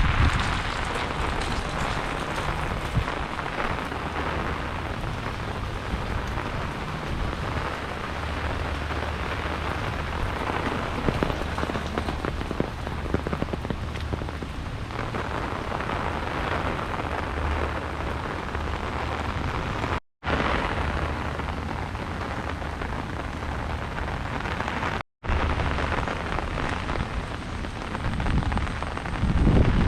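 Heavy rain falling steadily, with a low rumble underneath. The sound cuts out to silence for a moment twice, about two-thirds of the way through and again about five seconds later.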